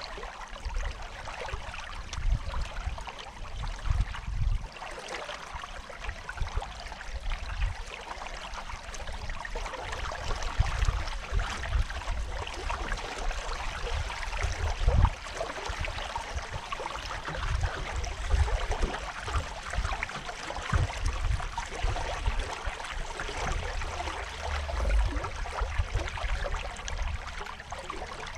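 Water splashing and trickling along the hull of a sailing canoe under way, with irregular low rumbles underneath.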